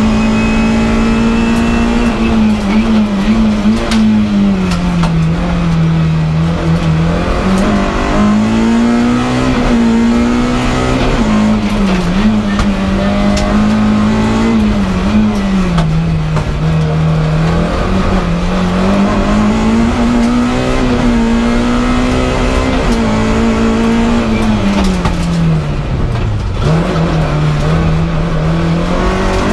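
Slalom race car's engine heard from inside the stripped cabin, driven hard. Its loud note keeps dropping and climbing again as the car lifts off and accelerates between the cones.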